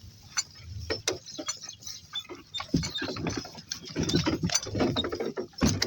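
Donkey-drawn cart rolling through tall grass: irregular clicks and rattles over a steady rustle.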